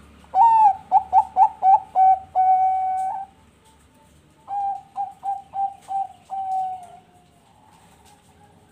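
Perkutut bangkok (Thai-bred zebra dove) singing two cooing phrases. Each phrase is a quick run of short staccato coos that ends in one long held note. Fainter coos follow near the end.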